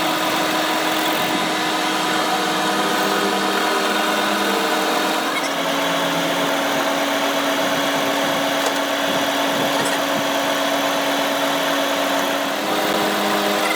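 A power tool's electric motor running steadily in a workshop. Its pitch drops slightly about five seconds in and comes back up shortly before the end.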